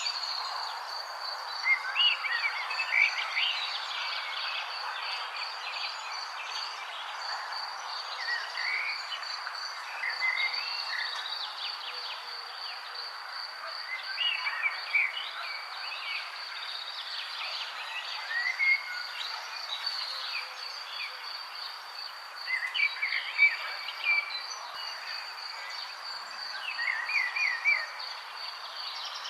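Songbirds chirping and calling in short scattered bursts over a continuous high, pulsing trill and a steady background hiss.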